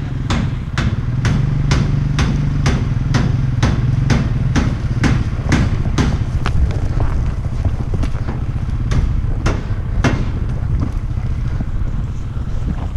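An engine running with a steady low hum, and a sharp regular click about twice a second over it that fades out about ten seconds in.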